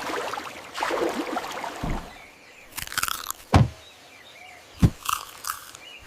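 Short bird chirps with three soft thumps spread through the middle, the loudest about halfway.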